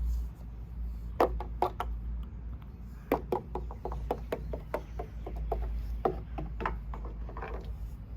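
Light, irregular clicks and knocks of small toys being handled and tapped against a toy playset, in a quick scattered series from about a second in, over a steady low rumble.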